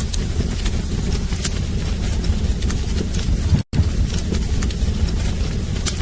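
Wood fire burning in a fireplace: a steady low rumble with irregular crackles and pops. The sound cuts out for an instant a little past halfway.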